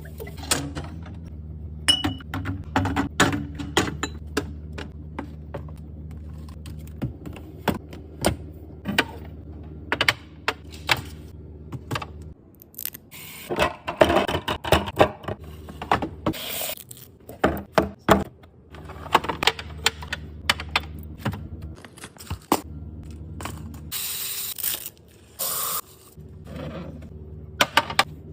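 Items being handled and set down while a fridge is restocked: quick clicks, knocks and clatters of containers, jars and lids, with a few short rustling or spraying bursts near the end, over a low steady hum that cuts in and out between clips.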